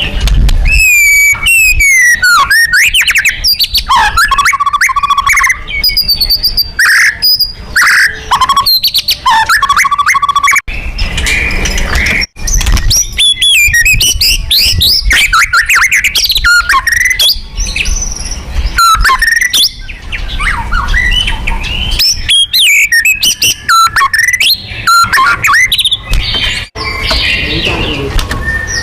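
White-rumped shama singing a loud, continuous, varied song of rapid whistles, trills and sweeping phrases, broken by a few brief, sudden gaps.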